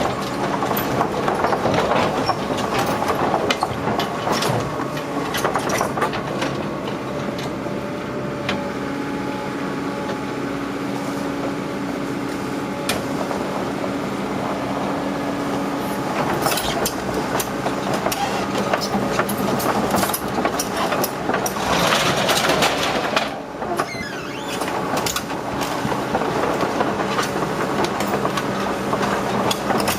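Full-track logging tractor on the move: its engine runs steadily under a constant clatter and knocking from the tracks.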